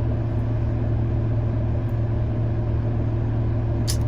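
Car engine idling steadily with a constant low hum, heard from inside the cabin while the car stands still. A short click sounds near the end.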